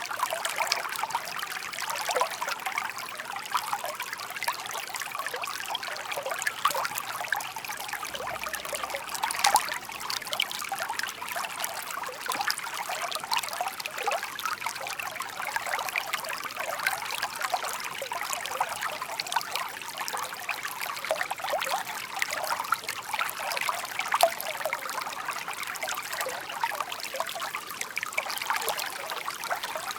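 Shallow stream babbling and trickling over stones, a steady stream of small splashes and gurgles with no letup.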